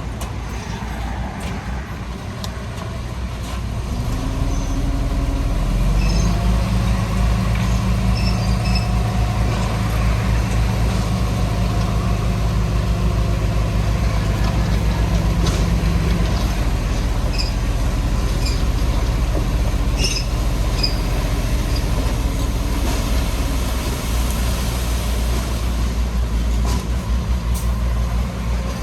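Diesel engine of heavy earthmoving machinery running, building up about four to six seconds in and working hard until about sixteen seconds, then easing off. Short high-pitched squeaks and clicks come and go over the middle.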